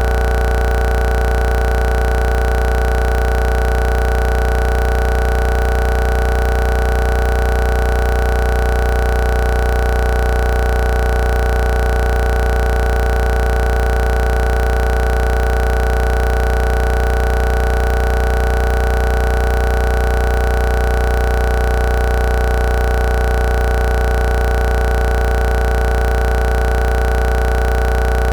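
A steady, unchanging drone of several held tones, strongest in a deep low hum, with no bangs or breaks.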